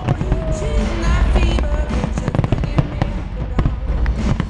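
Fireworks display: many shell bursts and bangs in quick succession over a deep rumble, with loud music playing alongside.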